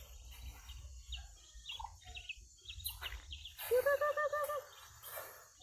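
Birds chirping, with a loud run of about six quick repeated call notes a little past halfway.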